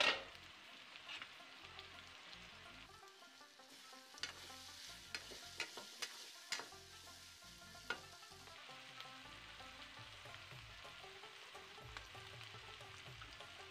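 Jerusalem artichoke pieces sizzling quietly in a karahi while a spatula stirs them, with sharp clicks of the spatula striking the pan, most of them between about four and eight seconds in. A loud knock comes right at the start.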